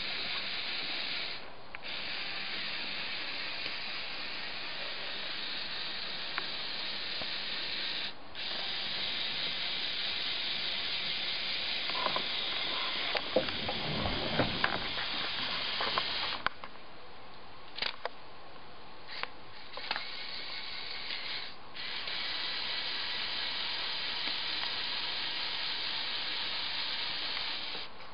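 Lego 8043 motorized excavator's Power Functions motors driving its plastic gear trains, a steady whirr that stops and restarts a few times. A run of sharp clicks comes midway.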